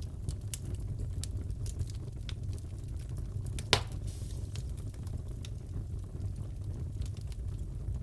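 Fireplace fire crackling: scattered small crackles over a steady low rumble, with one loud pop about halfway through.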